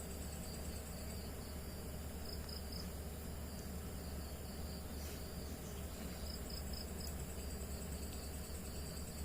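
Night insects such as crickets chirping in short, repeated pulses over a steady background hiss.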